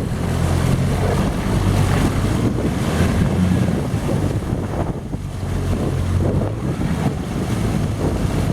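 An engine running steadily with a low hum, with wind buffeting the microphone.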